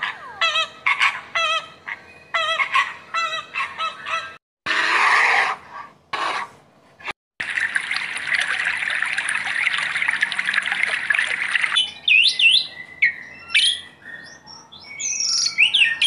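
Flamingos honking: a run of short, repeated nasal calls with a quavering pitch. After a brief burst of noise, a steady hiss runs for about four seconds, then a bird gives sweeping calls that rise and fall in pitch.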